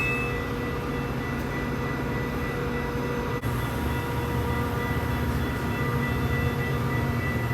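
A train running by with a steady low rumble and a steady hum of held tones over it. The wheel squeal dies away right at the start, and there is a brief break about three and a half seconds in.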